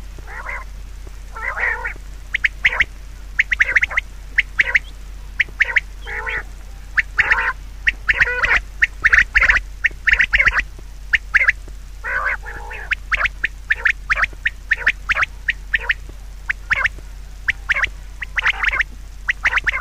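Birds giving many short, harsh calls in quick succession, several overlapping at times, over a steady low hum.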